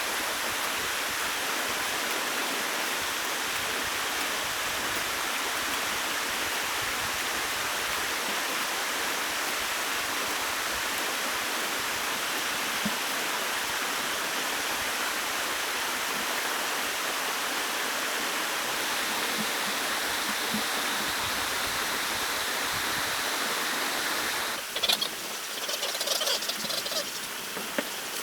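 Steady rush of running water, as from a stream. Near the end it cuts off suddenly, giving way to scattered light taps and rustles.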